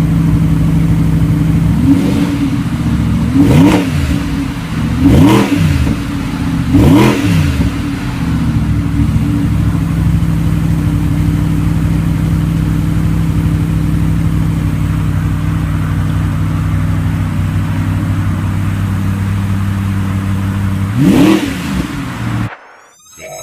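Audi R8's 4.2-litre V8 idling steadily and being blipped, the revs jumping up and dropping straight back: four quick revs in the first eight seconds and one more near the end. The engine sound then cuts off abruptly.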